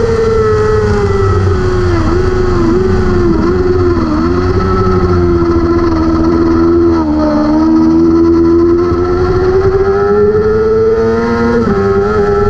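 600 cc race motorcycle engine at high revs. Its pitch falls under braking with several quick dips as it downshifts, holds, then climbs steadily under acceleration. A brief dip near the end marks an upshift.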